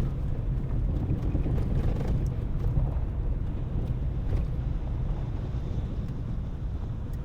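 Car being driven: a steady low rumble of engine and tyre noise, with a few faint clicks.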